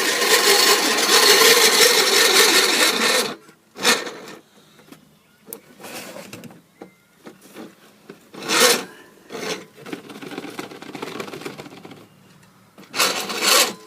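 Pedal-powered grain mill grinding whole wheat, a loud steady grind that stops abruptly about three seconds in. After that there are only scattered knocks and clicks, with two short louder bursts of noise later on.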